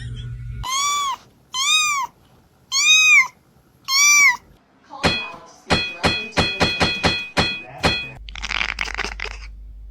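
A cat meowing four times, each call rising and then falling in pitch. This is followed by a quick run of about ten sharp clicks with a ringing tone, and then a couple of short noisy rushes near the end.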